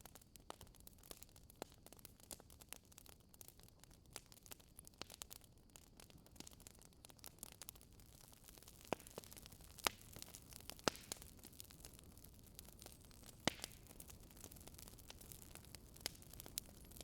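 Burning Swedish fire log crackling: faint, irregular snaps and pops of burning wood over a soft steady hiss, with a few sharper pops about halfway through and later.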